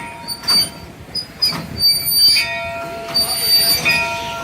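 Wood-fired steam train moving slowly, its wheels squealing in high-pitched stretches that come and go, with a couple of sharp knocks early on.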